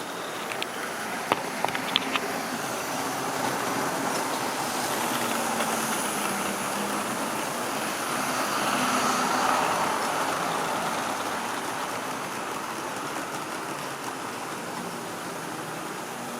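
A model railway train running on the track: a steady whirr of the motor and wheels that grows louder as it passes closest, about nine to ten seconds in, then fades. A few sharp clicks come about a second or two in.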